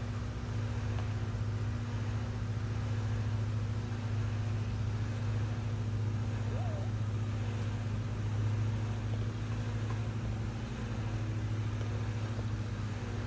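A steady low mechanical hum, as of a motor or machine running, with one faint short chirp about two-thirds of the way through.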